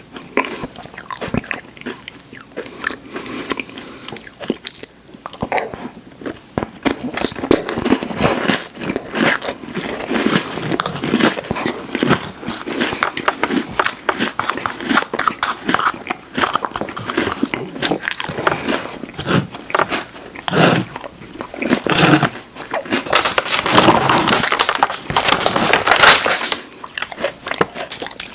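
Close-miked mouth sounds of eating crunchy cookies: repeated crisp bites and crunchy chewing. They are sparser at first and grow denser and louder towards the end.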